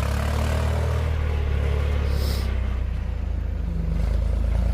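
Backhoe's diesel engine running steadily at a low, even drone while it digs through deep snow, with a brief hiss about two seconds in.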